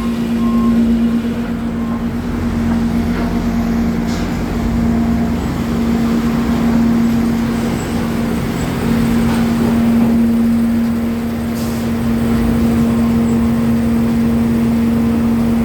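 Sawmill board planer running steadily, planing boards for pallet material: a loud, constant machine hum.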